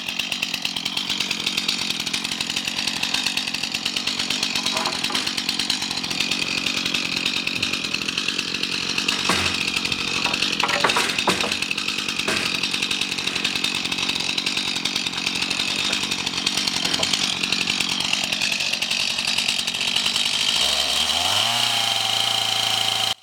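Chainsaw running steadily as it cuts lumber, its engine pitch shifting near the end.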